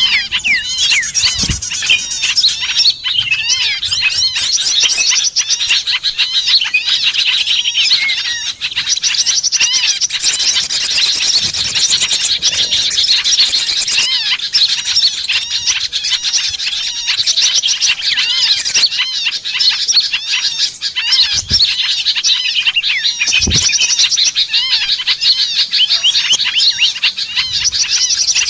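Dense, unbroken chatter of many small songbirds calling at once: fast, high chirps and twitters overlapping without pause. It is the kind of recording played as a lure to draw small birds in.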